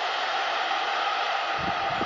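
Steady rushing noise of a passenger train pulling away down the line, slowly fading, with low bumps of wind on the microphone near the end.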